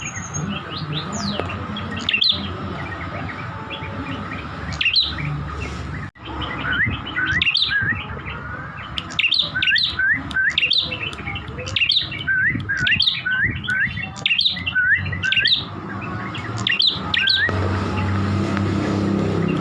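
Prenjak kepala merah, a small Indonesian songbird, singing a long run of quick, sharp chirps, many of them hooked upward in pitch, coming thick and fast in the middle of the song, over a steady low hum.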